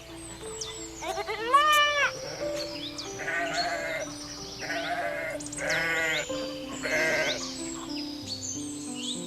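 A goat bleating about five times in a row, the first call rising in pitch and the later ones wavering, over light background music.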